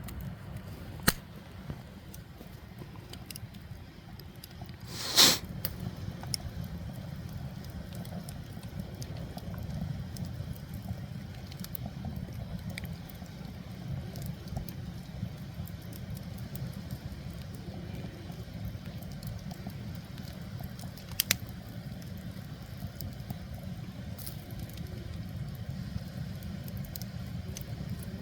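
Wood fire burning under a cast-iron cauldron: a steady low rumble with scattered crackles and a few sharp pops, the loudest about five seconds in.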